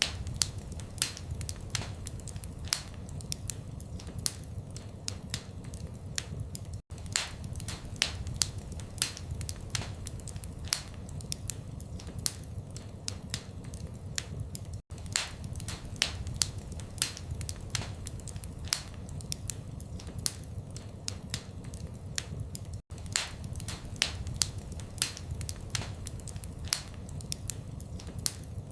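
Wood fire crackling in a fireplace: frequent sharp pops and snaps over a low, steady rumble of flames. The sound cuts out for a split second about every eight seconds, where the recording loops.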